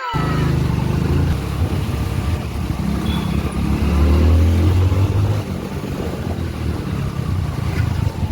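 Motorcycle engine running as the bike is ridden, the engine note shifting a little in the middle.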